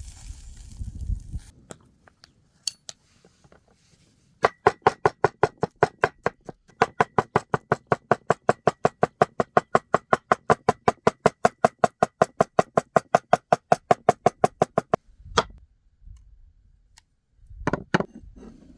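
Rapid, even knocking, about five strikes a second for some ten seconds, each strike with a short ringing tone; it pauses briefly once and stops, followed by a couple of single knocks near the end.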